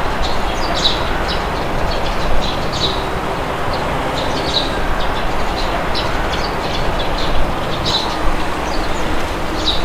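Steady wind noise with birds chirping over it, many short high chirps scattered throughout.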